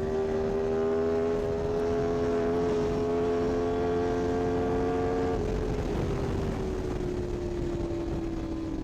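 Sportbike engine running at high revs at a steady pitch over wind and road rumble. About five seconds in the tone changes and the pitch slowly sinks as the revs ease off.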